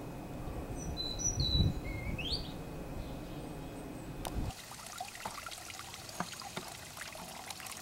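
A bird chirps a few short times over a low rumbling background, one call rising sharply. About four and a half seconds in, the sound switches abruptly to a quieter bed of fine crackling, trickle-like noise.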